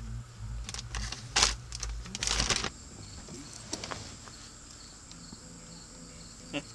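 Bumping and rustling for the first few seconds, then crickets chirping steadily.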